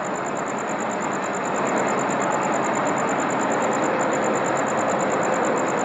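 Helicopter flying overhead: a steady rushing drone with a thin, high, rapidly pulsing whine, growing a little louder about two seconds in.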